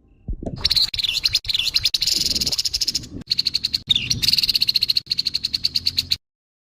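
Grey-headed babbler giving its harsh, rattling chatter: fast runs of high, rasping notes, several a second, broken by short pauses and cutting off abruptly near the end.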